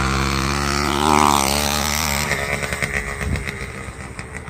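A small two-stroke motorized-bicycle engine running hard at high revs. It swells about a second in, then turns rough and choppy over the last couple of seconds.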